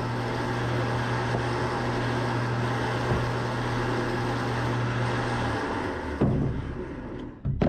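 A vehicle engine running at a steady speed with a low hum, which drops away about five and a half seconds in.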